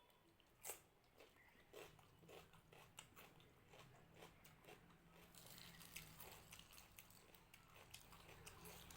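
Faint close-up eating sounds: chewing and mouth smacks on rice and mutton curry, a dense run of small wet clicks with a sharper click a little under a second in.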